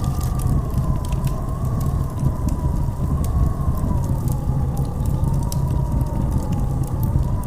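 Howling blizzard wind: a whistling tone that slowly wavers up and down over a deep, steady rumble, with scattered light crackles throughout.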